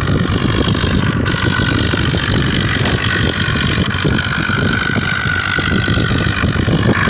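A motor vehicle's engine running steadily, at a constant even loudness.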